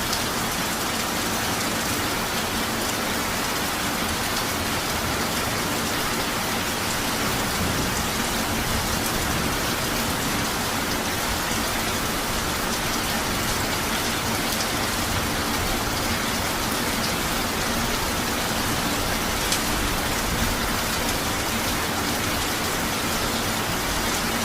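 Steady rain falling, an even hiss with no let-up, with a couple of louder drop hits about twenty seconds in.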